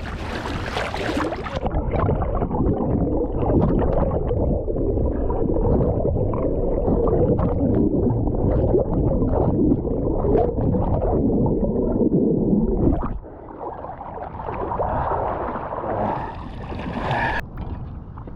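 Loud rumbling, gurgling water noise with a crackle in it, which drops off suddenly about thirteen seconds in to a quieter wash.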